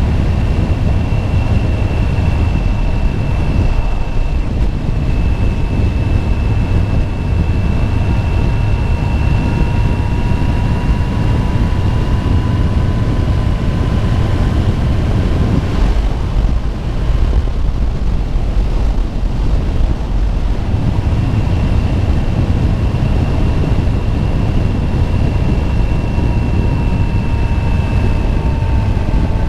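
Motorcycle riding at a steady cruising speed: heavy wind rush over the rider's microphone and a low rumble, with a thin steady engine whine that fades for a few seconds midway and then returns.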